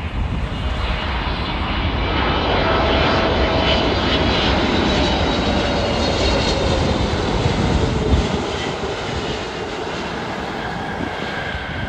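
Jet airliner's engines roaring as it passes close by, with a whine that slides down in pitch; the deep rumble drops away about eight seconds in.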